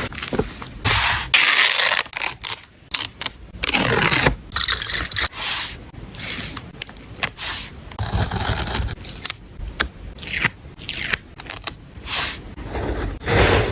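Paper and stationery handled close to the microphone while a journal page is laid out: irregular scraping and rustling strokes of varying length, one after another.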